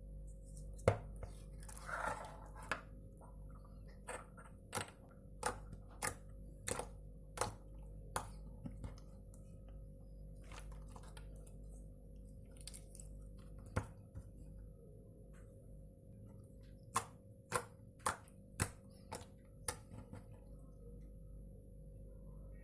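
Slime being squeezed and poked by hand, giving sharp little clicks and pops, at times about two a second, over a steady low hum.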